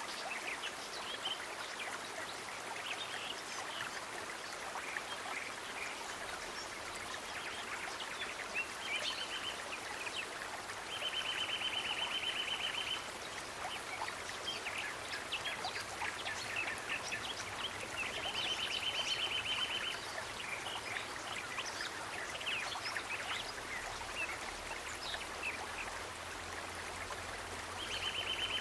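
Steady rush of a running stream with scattered high chirps over it, and a high rapid trill of about two seconds repeated several times.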